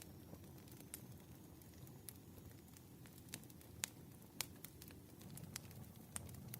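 Wood fire burning with a soft low rumble and irregular sharp crackles and pops, two louder pops near the middle.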